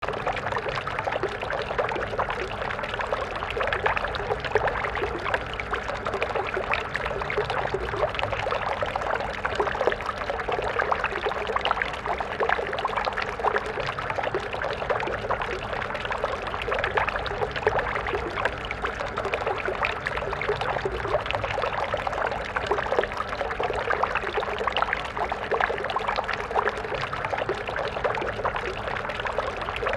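Shallow stream water flowing and splashing steadily, with a busy, bubbling rush.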